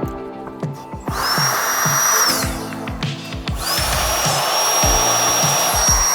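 Makita 18V cordless blower whining as it fills the inflatable boat's air chambers: it spins up about a second in, winds down briefly, then spins up again and runs steadily. Background music with a steady beat plays underneath.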